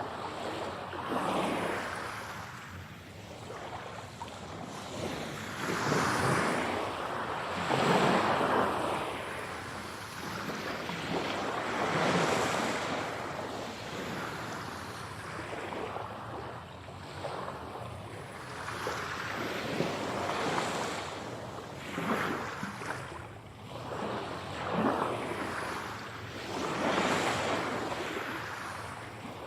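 Ocean waves breaking and washing onto the shore, each surge swelling and fading over a few seconds, one after another.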